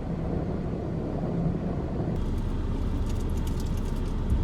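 Car driving slowly on a snowy road, heard from inside the cabin as a steady low rumble of engine and tyres. A faint crackle joins about halfway through.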